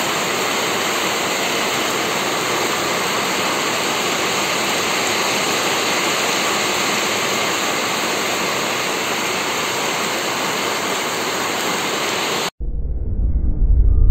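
Heavy rain pouring down in a steady, dense hiss. About twelve seconds in it cuts off abruptly, and a deep rumbling intro sting starts and swells.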